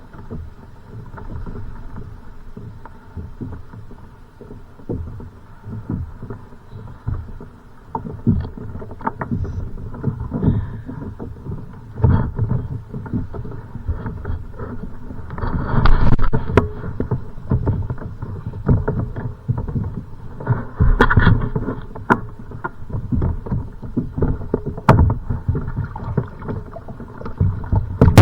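Choppy water sloshing and slapping against a kayak hull, with occasional knocks on the boat.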